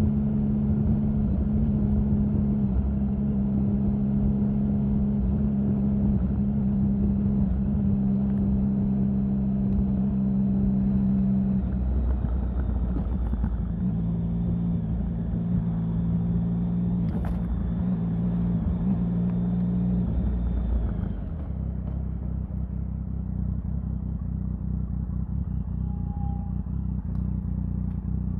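Triumph Sprint 1050's three-cylinder engine running at a steady engine speed. The note changes about twelve seconds in and turns quieter and duller a little after twenty seconds.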